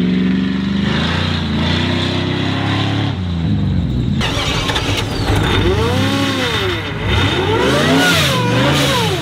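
A vehicle's engine running at a steady speed, then revved up and down several times in the second half.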